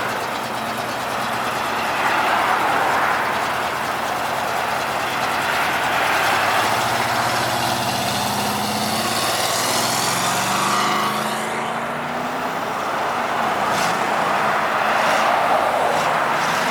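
A car engine accelerating as the car drives past, its note rising over several seconds about halfway through, above steady outdoor background noise.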